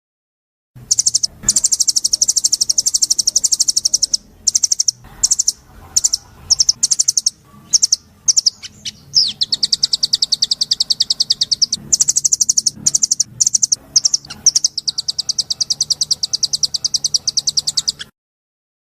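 A songbird singing long, very fast high-pitched trills in repeated bursts, with a few short sweeping notes in between; the song starts about a second in and cuts off abruptly near the end.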